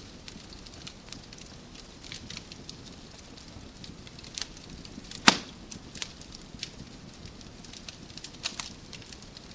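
Wood fire crackling in a fireplace: a low steady hiss with frequent sharp snaps of burning logs, and one loud pop about five seconds in.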